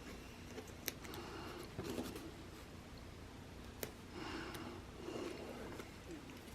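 Faint handling of paper planner pages and sticker sheets: soft rustles with a couple of light, sharp clicks.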